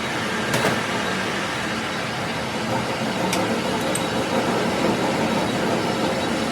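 Workshop machinery running steadily, with a couple of brief sharp metallic clicks about half a second and three seconds in.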